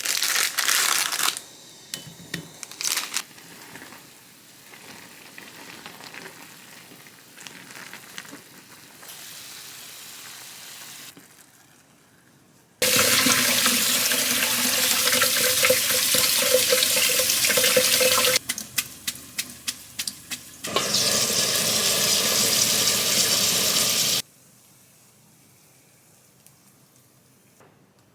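Kitchen tap water running into a sink in two spells, about five seconds and then about three and a half seconds, with a run of clicks and clinks between them. Dishes clatter at the start.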